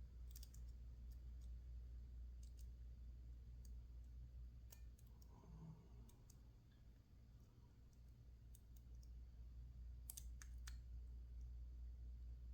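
Faint, scattered small clicks of a lock pick working the pins inside a PacLock 410 Pro padlock, over a low steady hum.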